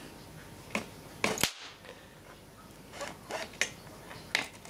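Capacitor bank discharging into a small component: several sharp snaps of sparking, the loudest about a second and a quarter in, with a few more from three seconds on.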